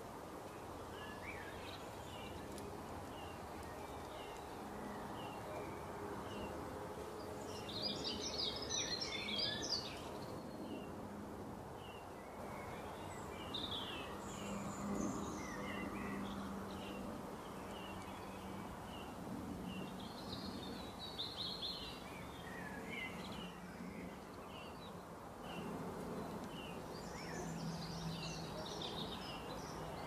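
Wild birds calling: one gives a short high chirp about once a second, while others break in with bursts of busy twittering four times. A low steady drone runs underneath.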